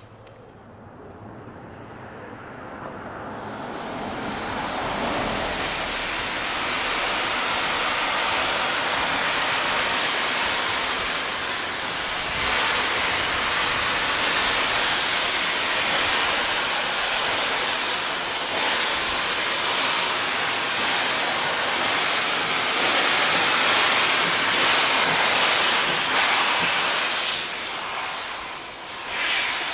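Steam train running past, a loud rushing noise that builds over the first several seconds and then holds.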